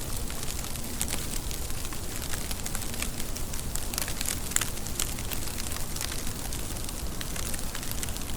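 Steady rain falling, with many sharp individual drop ticks over a low, even rumble.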